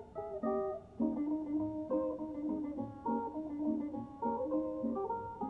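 Background music: plucked guitar playing a quick run of single notes.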